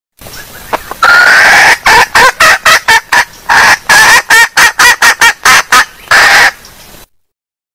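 Female junglefowl (wild hen) calling: a long opening note, then a quick string of short clucking notes at about three a second, broken by a couple of held notes, before it stops suddenly. The call is very loud.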